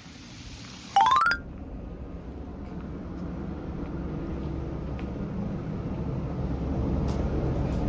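A quick rising run of chime-like tones about a second in, the loudest moment, followed by a low steady engine rumble that slowly grows louder.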